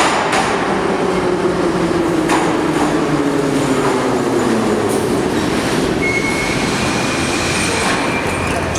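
E-series metro train running through the station, its motor whine falling in pitch over the first five seconds as it slows, with a few sharp clicks from the wheels. A thin, steady high tone joins about six seconds in.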